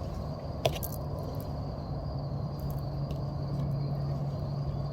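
Outdoor background sound: a steady low hum under a thin, steady high-pitched drone, with one sharp click a little over half a second in.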